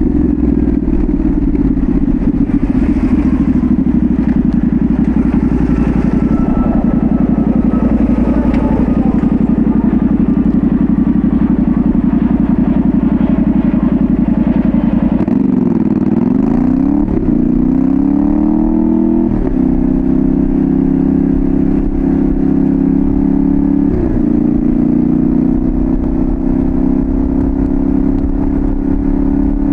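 Yamaha Tenere 700's parallel-twin engine running through a full Dominator GP1 exhaust, heard from the rider's seat. It holds a steady cruise, then about halfway the revs dip and climb again through a couple of gear changes before settling back into a steady pull.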